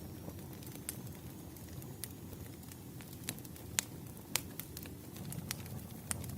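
Wood fire crackling, with sharp pops scattered irregularly, the loudest two about four seconds in, over a steady low rumble.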